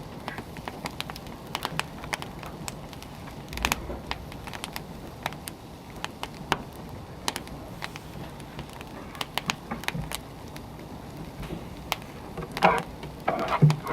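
Wood fire burning: irregular sharp crackles and pops over a steady hiss, with a louder rustling flurry near the end.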